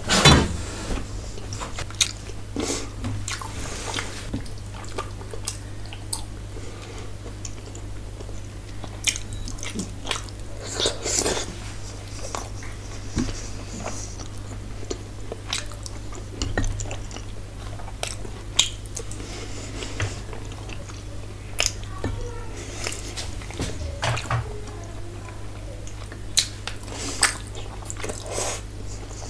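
Close-miked chewing and mouth sounds of a person eating by hand, with wet smacking and scattered sharp clicks, the loudest bite right at the start, over a steady low hum.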